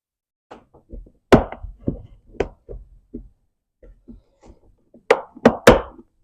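Irregular knocks and clatters of hard objects being handled, with a few sharp ones about a second in and a quick cluster of three near the end.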